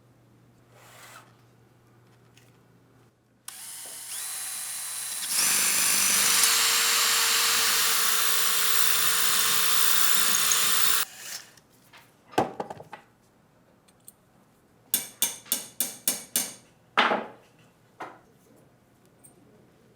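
An electric power tool spins up, runs loudly for about six seconds with a dense hiss over one steady tone, and stops abruptly. Afterwards come a few sharp knocks and a quick run of about six clicks.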